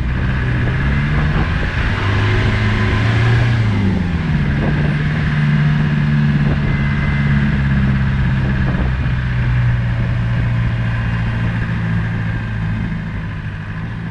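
Land Rover Discovery 200 Tdi diesel engine running as it drives. The engine note rises, drops about four seconds in and then holds steady, with a few light knocks and the sound fading near the end.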